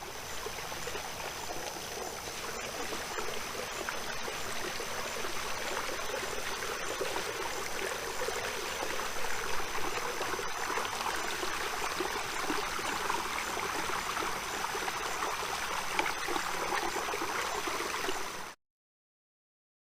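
Running water gurgling steadily, with a faint steady high-pitched tone over it, cut off abruptly near the end.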